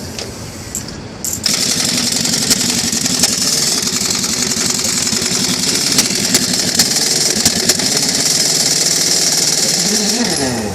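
Pneumatic impact wrench running on a semi-truck wheel's lug nuts, with a loud air hiss and a fast rattle. It starts suddenly, runs for about nine seconds, and its pitch slides as it stops near the end.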